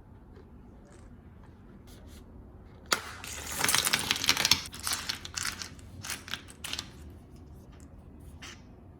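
A sharp click, then a few seconds of dense, irregular clinking and rattling of small hard objects that dies away.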